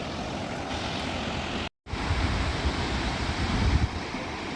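Steady rush of a large waterfall, with wind buffeting the microphone in low gusts; the sound cuts out for a moment about two seconds in.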